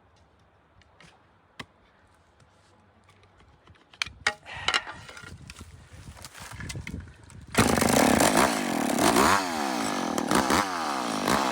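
A few light knocks and handling sounds, then about two-thirds of the way in a chainsaw comes in suddenly and loud, its engine revving up and down.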